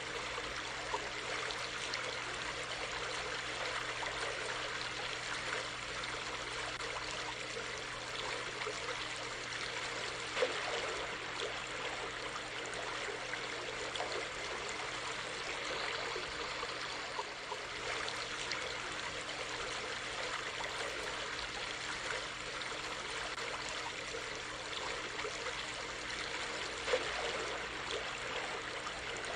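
A stream of water flowing steadily, with a few brief small splashes.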